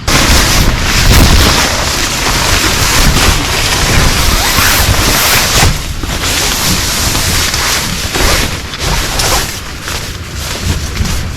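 Heavy rain pouring down hard: a loud, dense hiss with a deep rumble underneath and many sharp drop strikes. It comes in abruptly and eases off near the end.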